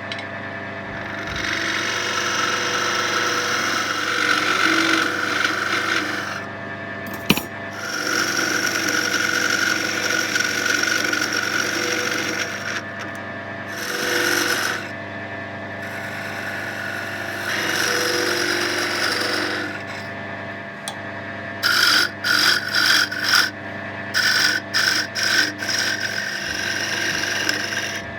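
Wood lathe running with a steady hum while a turning tool cuts an oak blank, the cutting noise coming in stretches of a few seconds and breaking into short, choppy bursts near the end.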